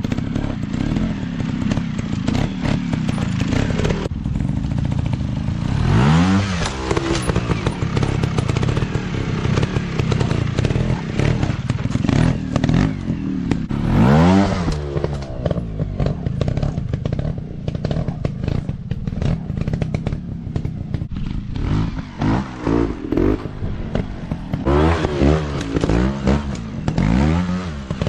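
Dirt bike engines running and revving. The pitch rises and falls sharply about 6 seconds in, again around 14 seconds, and several times near the end, over a steady clatter of knocks and scrapes.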